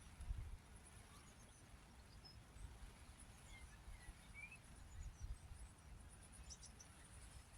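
Near silence: faint outdoor ambience with a low rumble and a few faint, short bird chirps near the middle.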